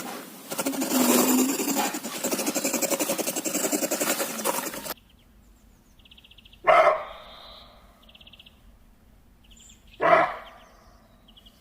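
A loud, dense rasping animal sound that cuts off abruptly about five seconds in, followed by two single sharp bark-like animal calls about three seconds apart, with faint insect-like trills between them.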